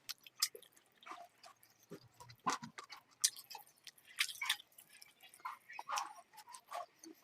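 Close-up mouth sounds of eating chicken curry with rice: irregular wet chewing, smacking and small clicks.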